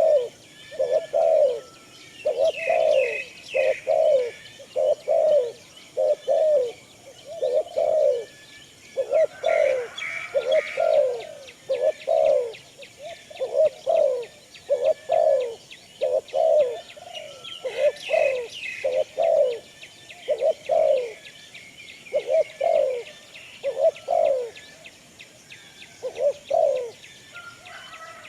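Doves cooing in a steady series, about one short falling coo a second, with brief bursts of higher chirps from small birds a few times.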